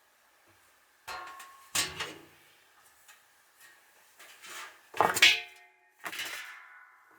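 Several sharp clinks and knocks of hard household items being handled, some leaving a short ringing tone, the last of them ringing on for about a second.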